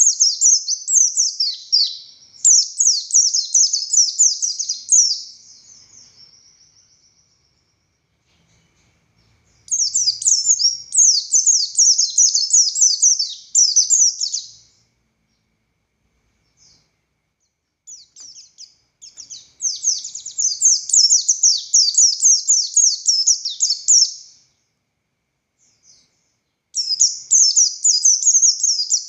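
Buxtoni white-eye (pleci) singing its long, rapid, high-pitched warbling song. It comes in bouts of about five seconds separated by pauses of a few seconds; the first bout fades out about six seconds in.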